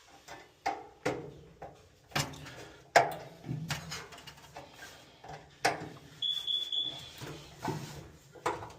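Irregular knocks, clacks and clicks of hands handling and fitting parts of a dryer, the loudest about three seconds in. About six seconds in, a short high electronic beep sounds twice.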